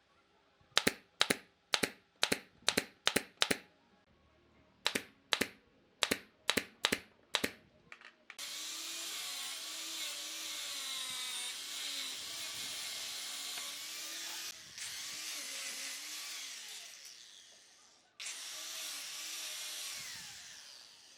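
About a dozen sharp knocks on wood in two quick runs, like hammer blows, then a handheld power tool running steadily with a wavering pitch for several seconds. It pauses briefly, winds down and starts again near the end.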